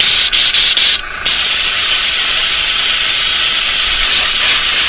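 Paint spray gun hissing as it sprays pearl paint, cut off a few times in quick short bursts during the first second and once briefly just after, then held on steadily.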